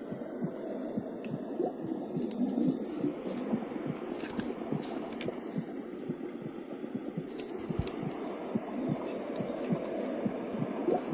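FUNYKICH baby white noise machine playing its heartbeat sound: a steady, muffled whooshing with repeated low thumps.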